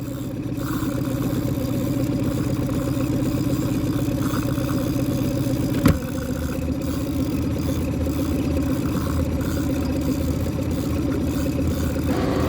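Boat engine running steadily, with a single sharp knock about six seconds in.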